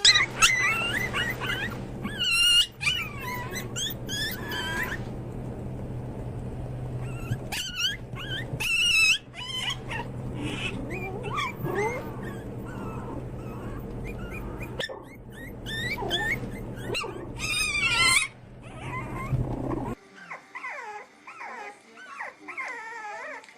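Dog whimpering and yipping in many short, high, wavering calls over a steady low hum. About twenty seconds in, the hum cuts off and quieter wavering whines go on.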